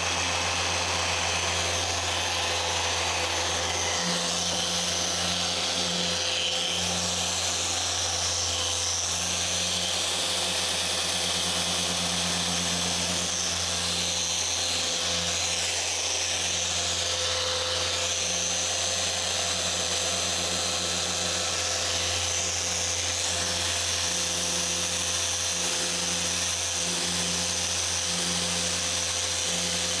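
A Flex XFE 7-12 80 forced-rotation orbital polisher with a 3-inch pad runs steadily on car paint during paint correction, a continuous motor whir with a low hum that wavers slightly as it is worked.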